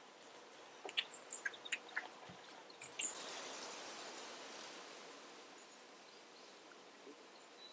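Outdoor ambience in a park: a string of short clicks and high chirps, then a rustling hiss that swells about three seconds in and fades away over the next few seconds.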